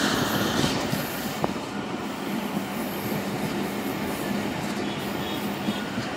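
Passenger train running along the track, heard from an open carriage window: a steady rushing rumble of wheels on rails with a low hum and a few sharp clicks.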